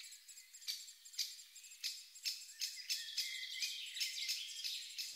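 Small birds chirping faintly, short high calls at an uneven pace, with a brief trill in the middle.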